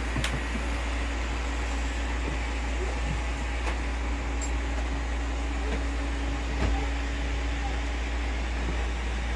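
Several robot vacuums running at once, a steady whirring hum with a faint held tone in it. There is a light knock about two-thirds of the way through.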